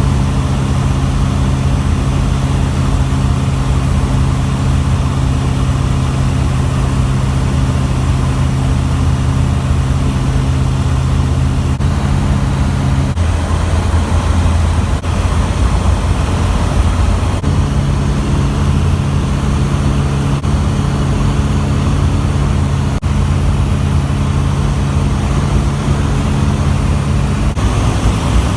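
Zenith Zodiac CH 601 light aircraft's engine and propeller droning steadily in flight. Its steady hum fades out for a few seconds around the middle, then returns.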